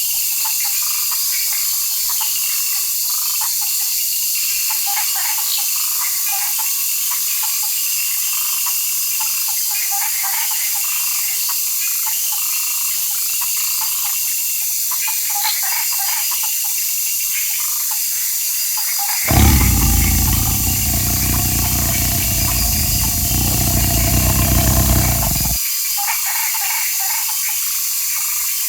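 Jungle ambience: a steady high hiss full of small chirps and calls of frogs, insects and birds. About two-thirds of the way through, a loud low rumble with a held, slightly falling tone comes in for about six seconds, then stops suddenly.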